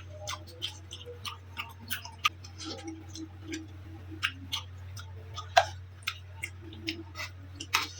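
Close-miked eating: irregular wet mouth clicks, lip smacks and chewing, several a second, with a few louder smacks, over a steady low hum.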